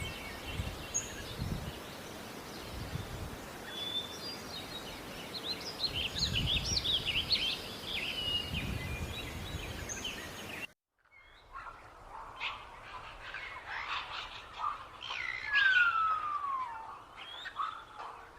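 Several small birds chirping and twittering over steady background noise. About eleven seconds in the sound cuts out briefly and a different set of bird calls follows, among them one long call sliding down in pitch.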